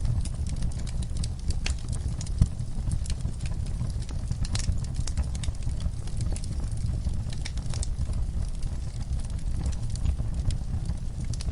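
Wood fire burning in a fireplace: a steady low rush from the flames with frequent irregular crackles and pops, one louder pop about two and a half seconds in.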